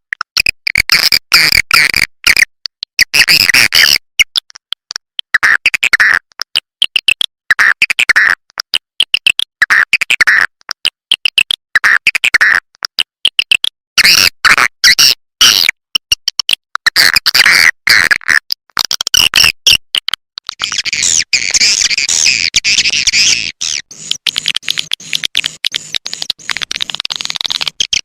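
Swiftlet lure call: rapid bursts of high twittering chirps and clicks, broken by short gaps, turning into a denser unbroken chatter about two-thirds of the way through. It is the calling sound played to draw swiftlets into a nesting house.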